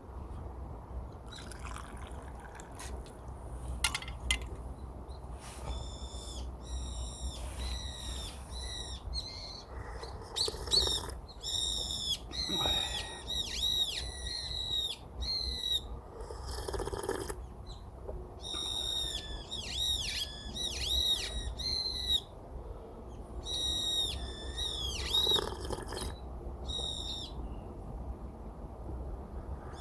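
Birds calling: quick runs of short, high chirps that come and go, over a steady low rumble.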